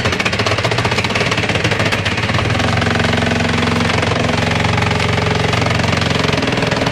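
A machine's engine running steadily under load, with a rapid, even pulsing rattle.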